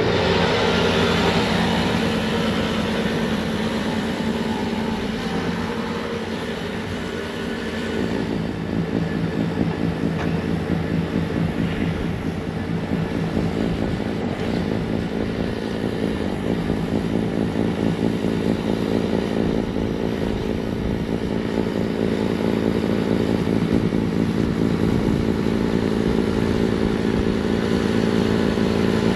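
Bobcat T66 compact track loader's diesel engine running steadily while it drives a snowblower attachment. It eases slightly about six seconds in and picks back up around eight seconds.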